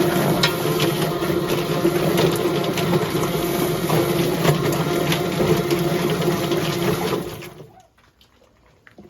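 Chicken plucker running with its water spray on, a steady motor hum under rushing water; it shuts off about seven and a half seconds in.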